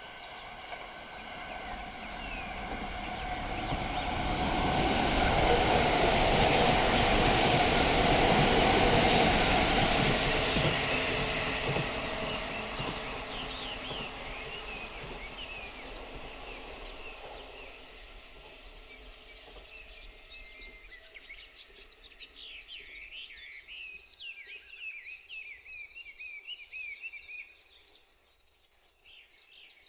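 A train passing: its rumble builds over the first few seconds, is loudest for a few seconds just before the middle, then fades away. Birds chirp as the train dies away.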